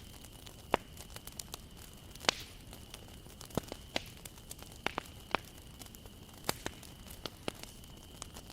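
Wood bonfire burning, crackling steadily with irregular sharp pops of burning wood over a soft hiss; the loudest pops come about a second and two seconds in.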